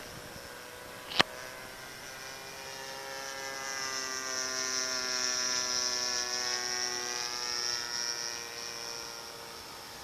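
Radio-control model plane's 20cc gas engine droning as it flies past, swelling to a peak about halfway through and fading away, its pitch dropping slightly. A sharp click about a second in.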